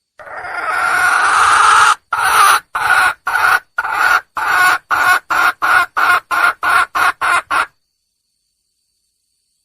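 Red junglefowl hen calling to draw a male: one long drawn-out note, then a run of about a dozen short clucks that come faster and faster and stop abruptly.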